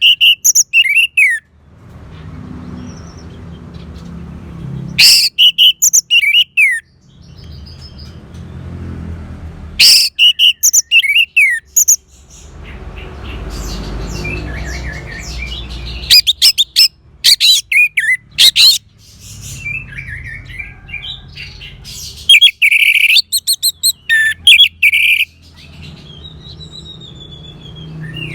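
Orange-headed thrush (anis merah) singing in short loud phrases about every five seconds. Each phrase opens with sharp notes and runs into quick down-slurred whistles. A low background rumble fills the gaps between phrases.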